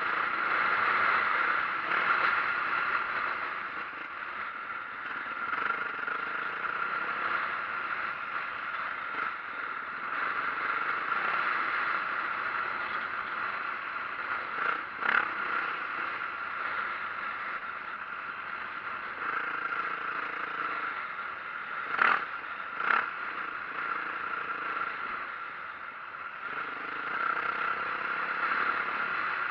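Dirt bike riding on a trail: a 2004 Yamaha YZ450F four-stroke single running, with rattling and clatter from the ride. Sharp knocks come about halfway through and twice more in quick succession a little later.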